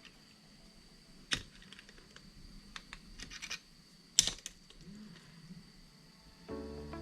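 Scattered small clicks and taps of hand tools and engine parts being handled at a workbench, with two sharper clicks about a second in and about four seconds in. Background music comes in near the end.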